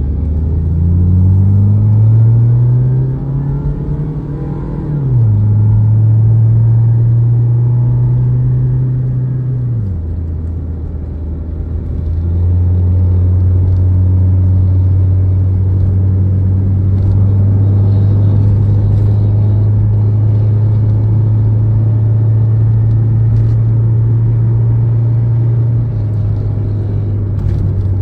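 Proton Wira 1.5's four-cylinder engine heard from inside the cabin while driving. It revs up with rising pitch over the first few seconds, drops sharply about five seconds in as the automatic gearbox shifts up, eases off near ten seconds, then settles into a steady cruising drone.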